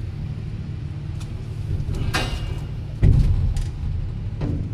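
A sharp metallic clank about two seconds in, then a heavier thud a second later, over a steady low mechanical hum.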